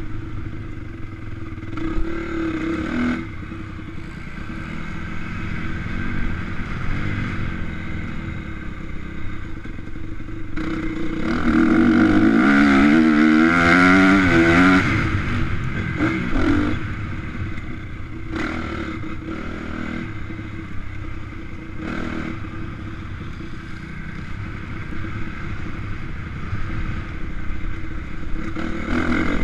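Honda CRF250 motocross bike's single-cylinder four-stroke engine revving on the track, the pitch climbing and dropping with throttle and gear changes. It is loudest from about eleven to fifteen seconds in, with quick rises and falls.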